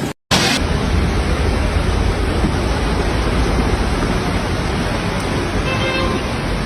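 Loud, steady rush of flood water with a deep rumble beneath it.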